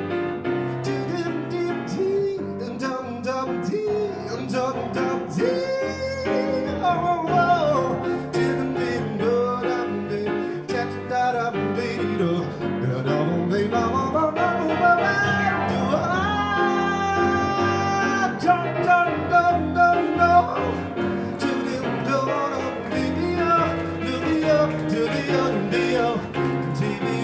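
Live band music with piano: a slow ballad in a wordless stretch between sung verses, a melodic lead line gliding and wavering over the accompaniment.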